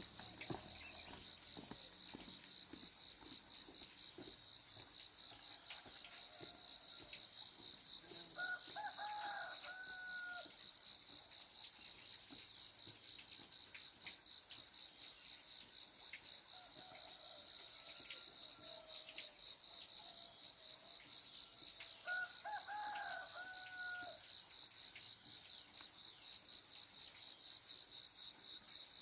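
A rooster crows twice, about nine seconds in and again near twenty-two seconds, with softer fowl calls between. Behind it, insects trill steadily in a fast, high, pulsing drone.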